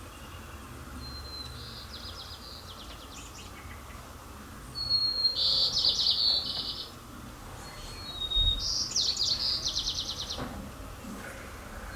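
Birdsong in three phrases, each a thin high whistle followed by a rapid buzzy trill; the second and third phrases are the loudest.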